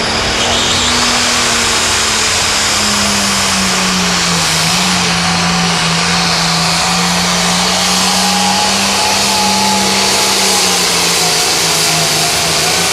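An International limited pro stock pulling tractor's turbocharged diesel engine at full throttle, dragging the weight-transfer sled down the track. It runs loud and steady, its pitch sagging slowly as the sled loads it down.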